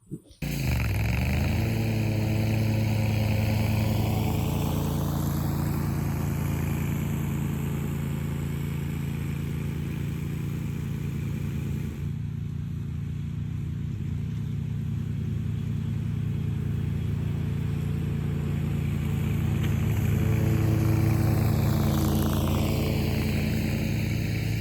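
A Bad Boy Rogue zero-turn mower's 1000cc Kawasaki V-twin engine running steadily under load while the mower cuts long pasture grass. The sound starts abruptly just after the beginning.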